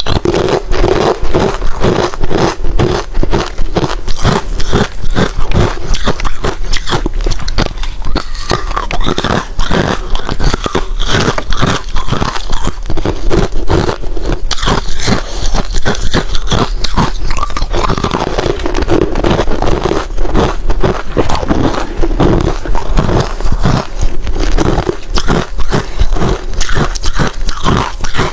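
Close-miked mouth chewing hard, crushed ice, a rapid run of loud crunches and cracks that carries on without a break.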